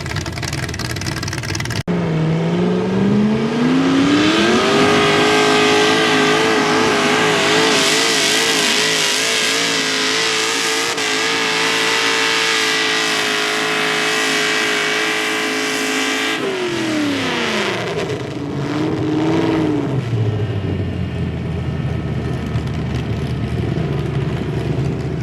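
A pulling tractor's engine revs up over a few seconds and holds at high revs through a long pull. It then drops back, blips once, and settles to an idle.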